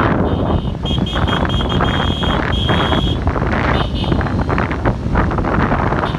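A vehicle running while moving, with heavy wind noise on the microphone; a high, steady tone sounds in several short bursts between about one and three seconds in.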